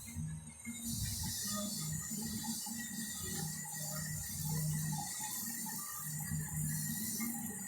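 Metalworking machinery running with a steady hum and an irregular clicking rattle of its mechanism.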